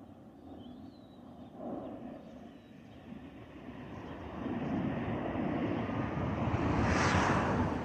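Jet engines of an Airbus A320-232 (IAE V2500) as the airliner goes by, a rushing roar that grows steadily louder through the second half and is loudest near the end.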